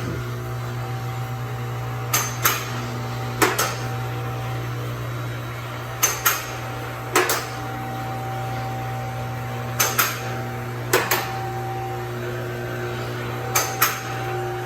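Hammer blows on metal, about a dozen sharp ringing strikes, often in quick pairs, every second or few seconds, over a steady low machine hum.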